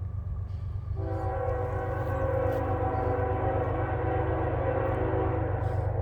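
CSX diesel freight locomotive's air horn sounding one long chord of several tones, starting about a second in and lasting about five seconds, as the train nears the grade crossing. A steady low rumble from the locomotives runs underneath and grows louder.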